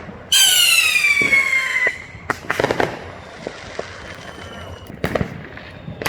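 A whistling firework shrieks for about a second and a half, its pitch falling, then scattered bangs and pops of consumer fireworks follow.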